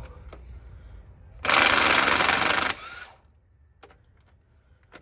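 A power tool runs in one loud burst of a little over a second, then stops; a few light clicks and knocks come before and after.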